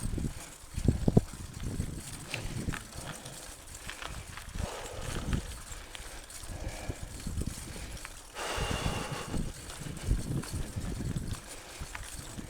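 Mountain bike rattling and knocking over a rough dirt trail, with irregular thumps from the wheels hitting bumps. A stretch of gravelly hiss comes in about eight and a half seconds in.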